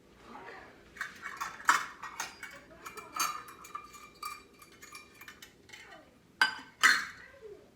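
Kitchenware clinking and clattering: pots, dishes and utensils knocked and handled, starting about a second in, with two louder knocks near the end.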